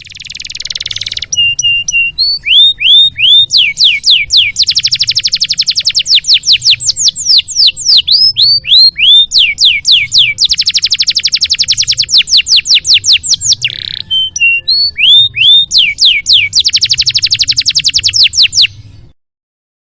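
Canary singing a long song of rapid trills and runs of repeated downward-sweeping whistles, over a faint low hum; it cuts off sharply near the end.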